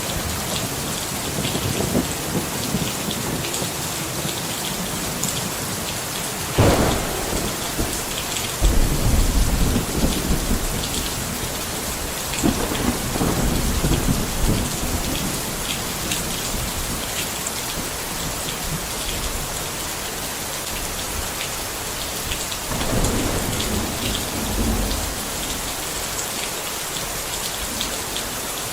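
Steady heavy rain falling, with rolls of thunder rumbling several times.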